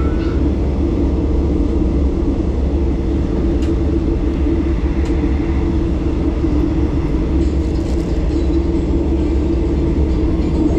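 Steady running rumble of an overnight sleeper train heard from inside the carriage while under way, with a constant low drone and an even hum, and a few faint clicks.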